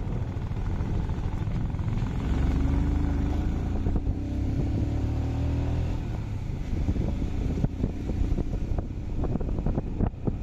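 Motorcycle engine running on the move, under a steady low rumble. A clearer engine note stands out from about two to six seconds in, and a few sharp knocks come near the end.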